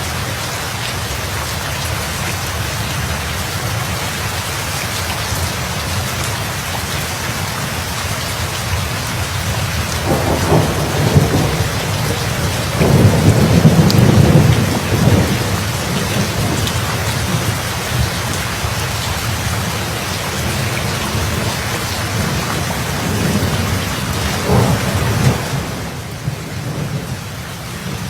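Steady heavy rain, with thunder rumbling over it: a first roll about ten seconds in, a louder, longer one around thirteen to fifteen seconds, and a smaller one near the end.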